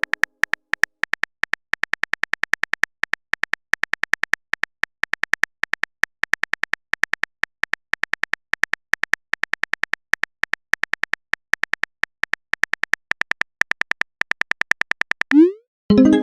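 Chat-app typing sound effect: a fast, even run of soft key clicks, about six a second. Near the end the clicks stop and a short rising swoosh plays as a message is sent, then a new tone begins.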